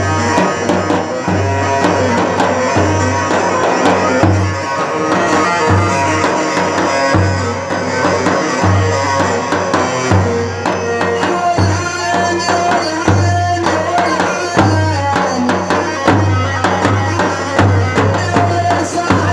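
Instrumental band music with a busy drum rhythm and a melody line over a bass that pulses on and off.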